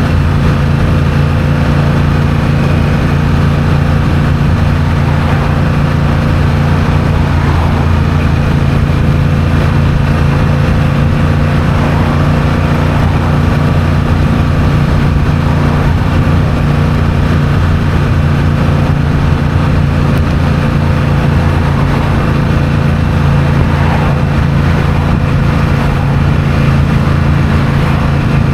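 Honda CMX1100 Rebel's parallel-twin engine running at steady revs while the bike is ridden, its pitch holding even with no shifts or revving.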